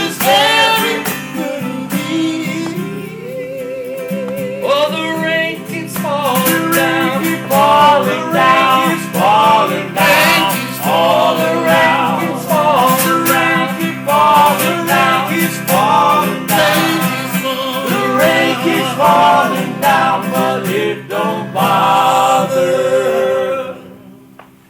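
Live band music: a singing voice with vibrato carries the melody over guitar accompaniment, and the music drops away near the end.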